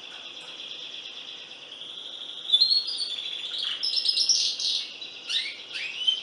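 Domestic canary singing: a steady, high rolling trill, then louder, varied phrases from about two and a half seconds in, with quick repeated notes and a few downward-sweeping notes near the end.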